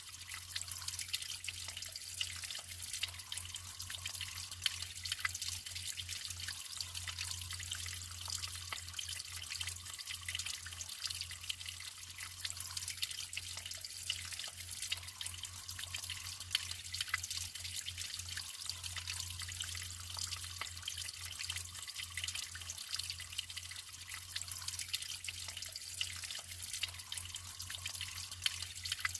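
Natural running water trickling and splashing steadily, with fine dripping detail and a low steady hum underneath.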